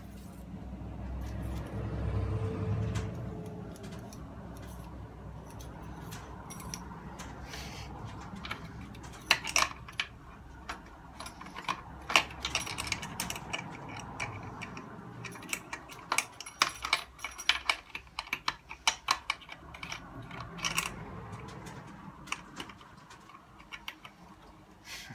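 Hands working on a small radio's plastic case and parts: a low rubbing and scraping in the first few seconds, then a long run of irregular clicks, taps and light rattles of small plastic and metal pieces.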